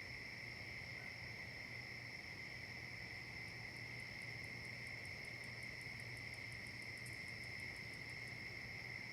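Crickets or other insects making a steady, high-pitched chorus. A second, higher ticking at about five ticks a second joins a few seconds in and stops near the end.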